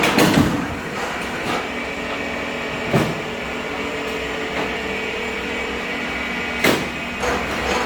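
Machinery used to cut and split oak firewood, running with a steady hum, with sharp knocks about three seconds apart.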